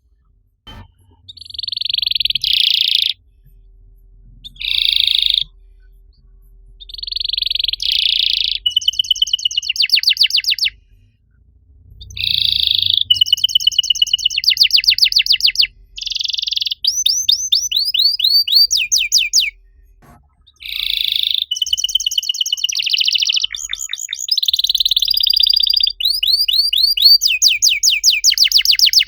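Domestic canary singing: phrases of fast, rapidly repeated trill notes, each phrase lasting one to three seconds, with brief pauses between them.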